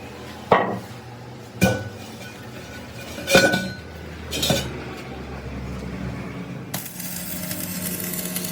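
Four ringing hammer blows on steel, spaced about a second apart. Near the end a steady buzzing machine noise with a low hum starts.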